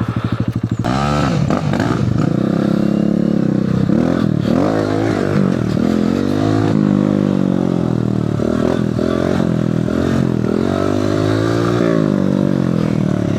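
Mini motorbike engine pulling away from a slow, pulsing low-rev run about a second in, then revving up and down again and again as the bike is ridden.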